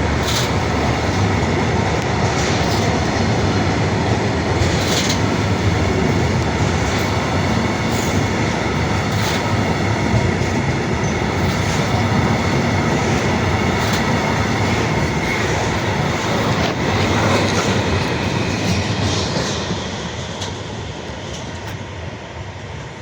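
Freight train rolling past, its wagon wheels running over the rails with a steady rumble and occasional sharp clicks at rail joints. The noise fades over the last few seconds as the train draws away.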